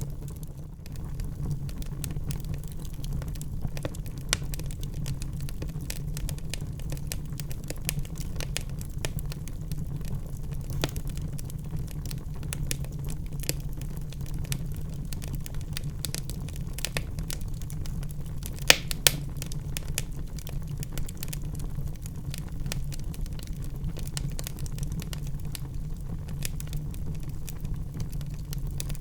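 Wood fire burning in a fireplace: a steady low rumble of the flames with frequent irregular crackles and pops, two sharp pops standing out about 19 seconds in.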